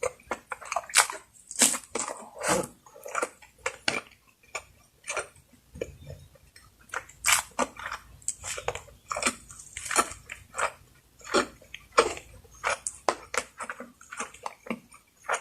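Close-miked chewing of a person eating, with many short, irregular mouth clicks, several a second.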